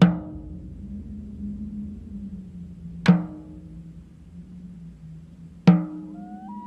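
Horror-trailer score: three heavy percussive hits a few seconds apart, each leaving a low held tone ringing between them.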